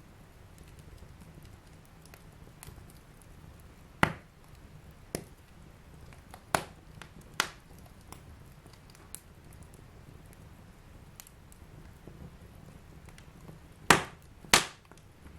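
Wood fire in a fireplace burning with a low steady rumble and sharp crackling pops: half a dozen scattered snaps, the two loudest close together near the end.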